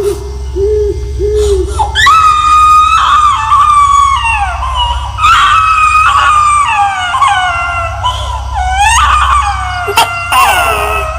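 Eerie high-pitched wailing cries, a string of long notes that mostly slide down in pitch, over a steady low hum.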